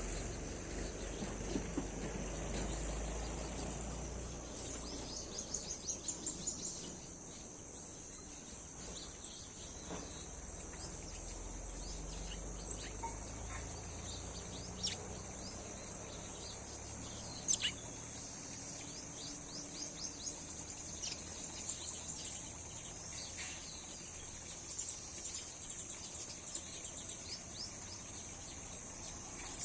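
A steady high-pitched drone of crickets or other insects, with scattered short bird chirps and a few sharp clicks over it.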